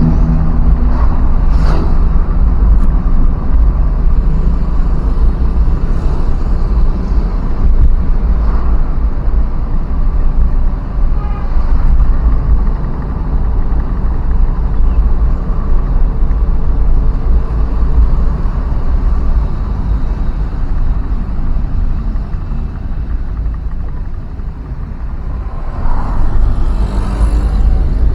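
Steady rumble of a vehicle moving along a road, engine and road noise together, easing briefly about 24 seconds in.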